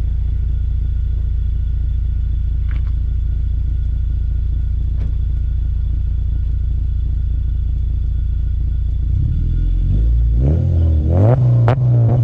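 Honda Civic Si's K20 four-cylinder engine, breathing through a Skunk2 Alpha header and Full Race 3-inch exhaust, running with a steady deep drone. In the last couple of seconds it revs up and down several times.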